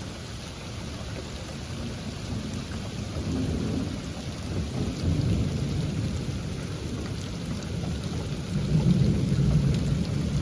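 Heavy rain pouring down, with low rumbling that swells a few times and is loudest near the end.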